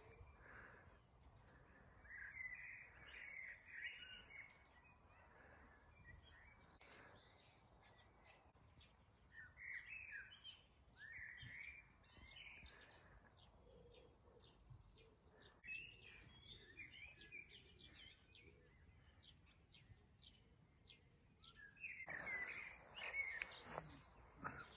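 Faint birdsong: small birds chirping and twittering in scattered bursts, with a short louder patch of noise near the end.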